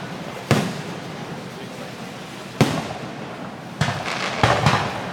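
Fireworks exploding: a sharp bang about half a second in, another a couple of seconds later, then a quick run of several bangs with crackling near the end.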